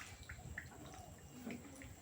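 LG direct-drive washing machine mid-wash: faint sloshing and dripping of water in the drum over a low hum.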